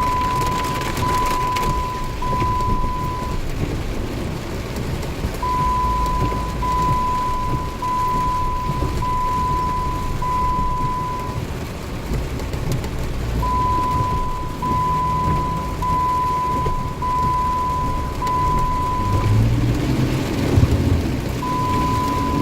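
Heavy rain with a low vehicle rumble underneath. Over it, an electronic warning beep at one steady pitch repeats in runs of about five one-second beeps, with a pause of about two seconds between runs.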